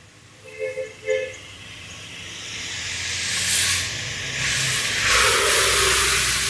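Two short electronic beeps, then a rush of blowing air that builds over a few seconds and holds loud near the end.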